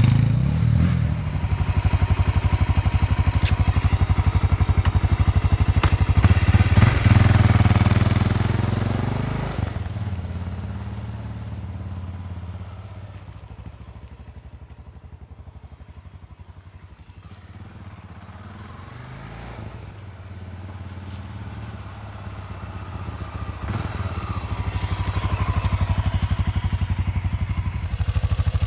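Honda NX650 Dominator's air-cooled single-cylinder engine running through its stock exhaust, with a distinct beat of separate firing pulses. It revs up about seven seconds in. The sound then fades away to a faint thump and grows louder again toward the end.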